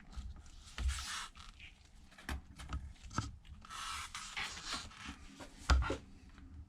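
Handling noise on a workbench: irregular scrapes, rubs and light clicks as the opened iPad is moved and handled, with a louder knock near the end.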